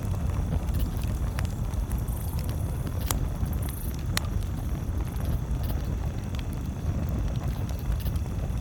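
Campfire crackling, with a few sharp pops over a steady low rumble.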